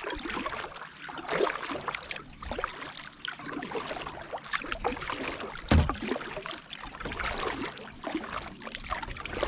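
Kayak paddle strokes in the water, with dripping and splashing from the blades, and a single dull thump about six seconds in.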